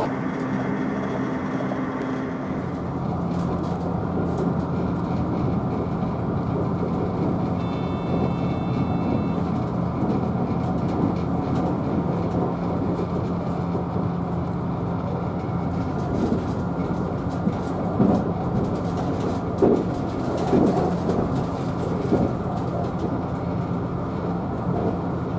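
Interior running noise of the Sonic limited express electric train at speed: a steady rumble with a low hum. A few rail knocks come in the second half.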